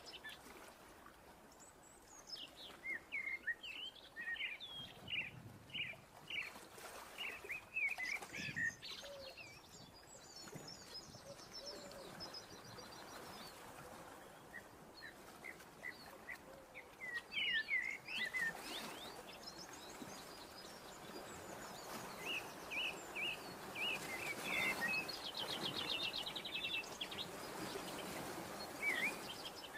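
Small birds chirping and twittering in short scattered calls, with a rapid trill about two-thirds of the way through, over a faint background hiss.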